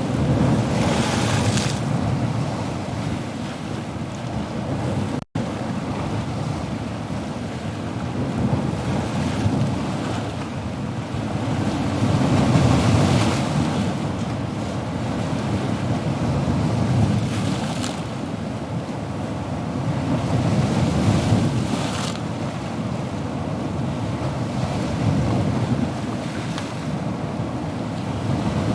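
Ocean surf washing continuously, swelling and easing every few seconds as waves break and recede. About five seconds in, the sound cuts out for a split second.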